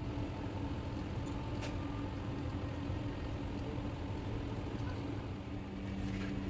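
Steady mechanical hum over a hiss of background noise, with a faint click or two.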